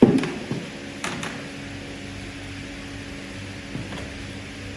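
A heavy thump at the start, then a steady mechanical hum, with a couple of sharp clicks about a second in.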